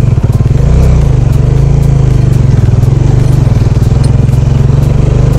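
Bajaj Dominar 400 single-cylinder motorcycle engine running steadily under way on a rough gravel road, heard close to the bike. Its note firms up slightly about a second in.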